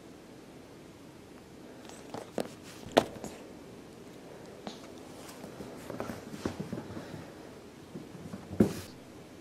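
Kitten scampering after a toy ball: scattered light thumps and quick paw steps, with a sharp knock about three seconds in and a louder thump near the end.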